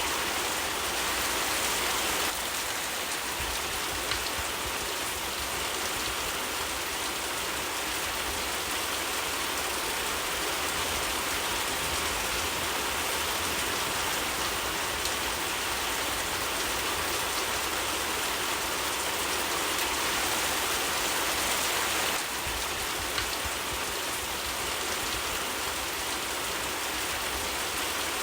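Steady rain falling, an even dense hiss that dips slightly in level twice.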